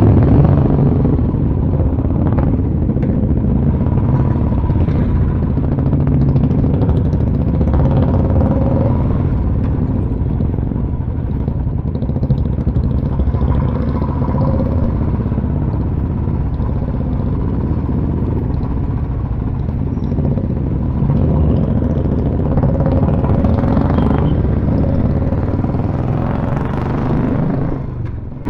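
Royal Enfield motorcycle engines running steadily on the road.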